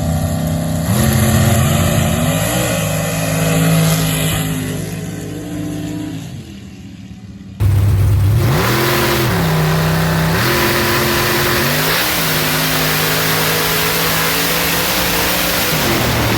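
Mud drag race truck's engine revving hard, its pitch rising and falling several times. It fades away about six seconds in, then comes back suddenly loud and rises and falls again.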